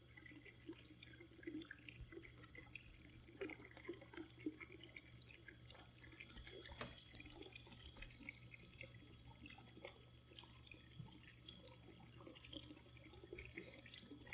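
Faint water trickling and dripping, with scattered small ticks, over a steady low hum.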